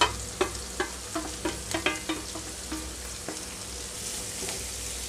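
Shredded cabbage tipped into a hot pan of frying onions and stirred with a wooden spatula: a quick run of light knocks and scrapes of the bowl and spatula against the pan over the first three seconds, over a steady oil sizzle.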